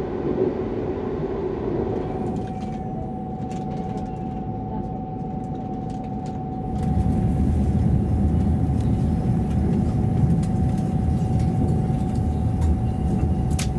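Transwa Prospector diesel railcar running, heard from inside the carriage: a steady rumble of the train on the track with a constant mid-pitched whine. About seven seconds in, the rumble grows louder and deeper.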